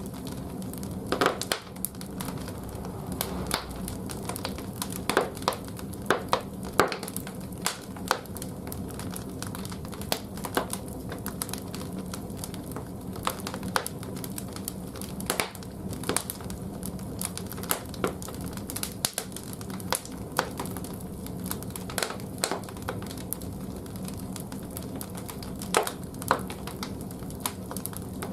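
Firewood burning in the firebox of an old wood-fired bathhouse boiler: irregular sharp pops and crackles over a steady low hum from the fire.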